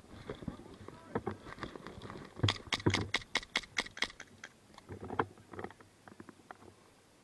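Airsoft gun firing a quick string of about a dozen sharp shots, about six a second, among scattered knocks and rustling of movement.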